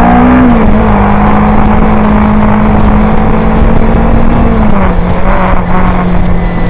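Kawasaki Ninja 250R's parallel-twin engine running at a steady cruise, with wind and road noise on the camera microphone. The engine note holds steady, then drops slightly about five seconds in as the throttle eases.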